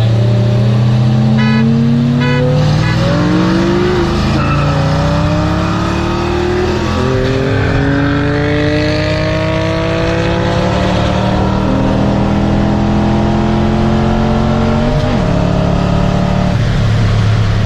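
Turbocharged sports car engine accelerating hard through the gears: the engine note climbs steadily, then drops sharply at each upshift, four times in all, before steadying and easing off near the end.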